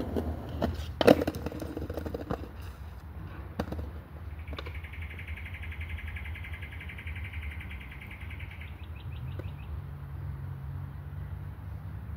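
Skateboard knocks and clatter, several sharp hits in the first two seconds, the loudest about a second in. Then a high, fast-pulsing animal trill runs for about four seconds and ends in a short run of chirps, over a low steady rumble.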